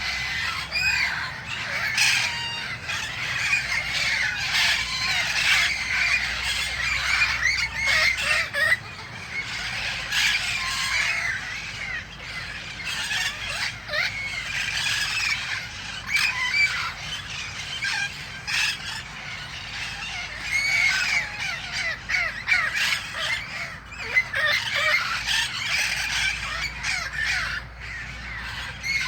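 A flock of red-crowned amazon parrots calling: many short squawking calls overlapping, rising and falling in pitch, continuing without a break.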